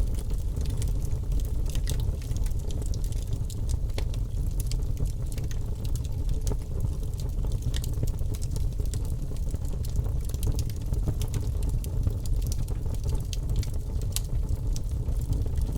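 Birch logs burning in a fireplace: frequent sharp crackles and pops over a steady low rumble.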